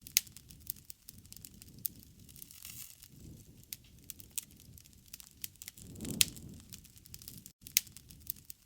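Campfire crackling: sharp, irregular pops of burning wood over a low rumble of flame that swells about three seconds in and again near six seconds.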